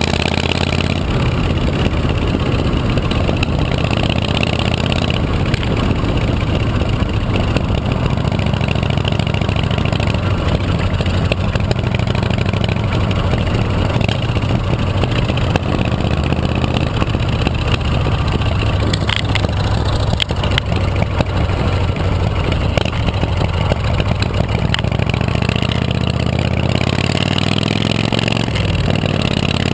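Chopper motorcycle engine running steadily, its pitch shifting a little near the end.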